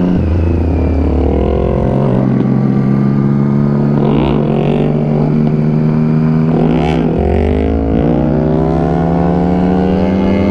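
Motorcycle engines running under way. The engine note shifts in pitch, and the revs rise and fall briefly twice in the middle.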